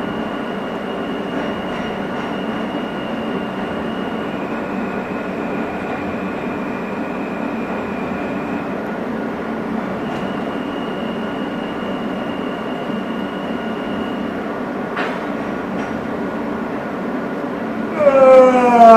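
R160 subway car running at speed, heard from inside: a steady rumble with faint steady whining tones. Near the end a loud falling-pitch whine lasts about a second.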